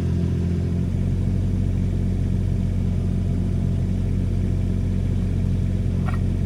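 Komatsu PC16 mini excavator's diesel engine running steadily at a low idle, its note shifting slightly about a second in.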